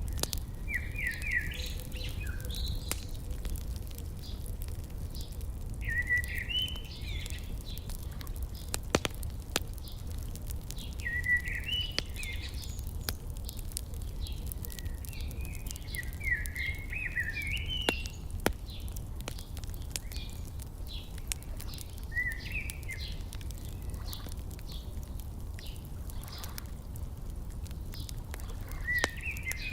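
A songbird repeating short chirping phrases every five seconds or so over the sharp, irregular crackle and pops of a wood fire, with a steady low rumble underneath.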